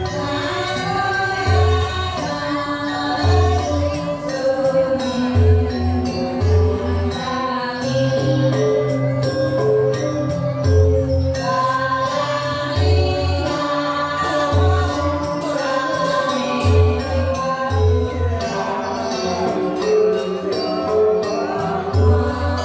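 Balinese janger song: a group of voices singing together over a steady percussion accompaniment with a repeating low beat and sharp, regular clicks.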